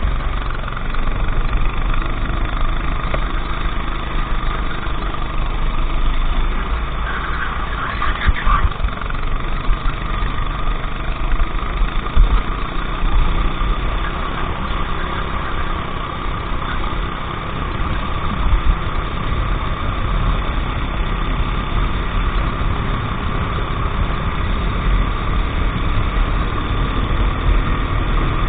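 Racing kart engine running continuously at a fairly even pitch, over a heavy low rumble.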